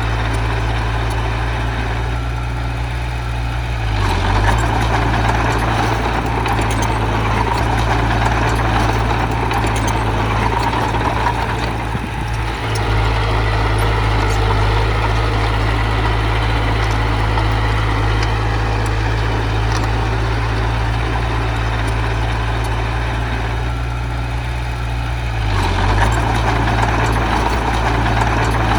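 Diesel engine of a heavy earthmoving machine running steadily. It works harder about four seconds in and again near the end, with a brief dip in between.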